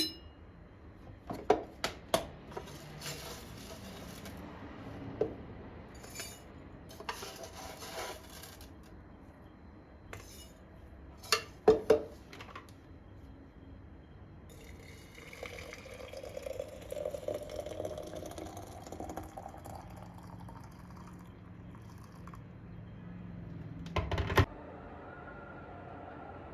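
Dishes, glasses and cutlery clinking and knocking as they are handled, with several sharp clinks, the loudest a little before halfway and near the end. A few seconds past the middle, liquid pours with a slowly rising pitch as a vessel fills.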